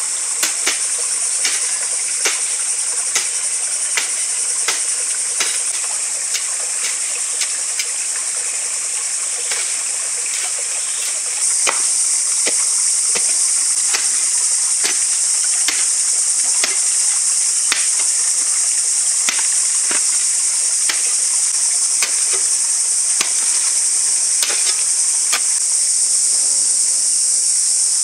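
Steady high-pitched insect chorus, with sharp knocks recurring about once a second. The chorus gets louder about eleven seconds in.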